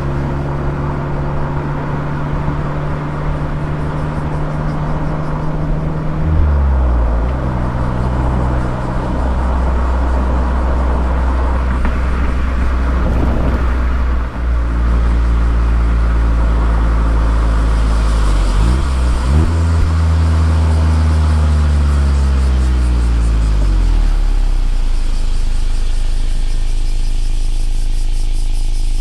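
Mazda ND Roadster (MX-5) four-cylinder engine through an aftermarket exhaust, driving in town. Its note changes pitch several times as the car moves off and shifts, falls away about two-thirds of the way through as the car slows, and settles to a steady low note near the end.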